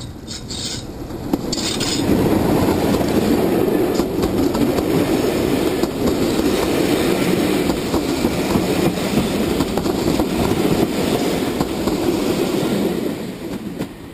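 Diesel-hauled passenger train passing close by. The locomotive's engine grows loud about two seconds in, then the coaches' wheels clatter over the rail joints, and the sound fades away near the end.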